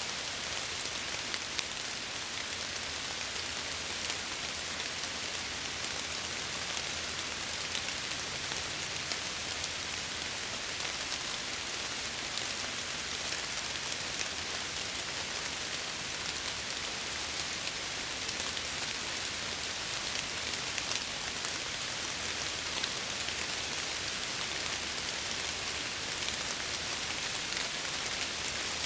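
Steady rain against window glass: an even hiss of rainfall with many small drop ticks.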